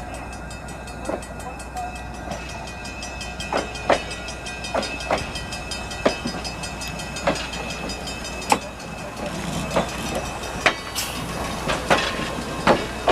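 Passenger train running: a steady low rumble with irregular sharp knocks and clacks about once a second, more frequent in the second half.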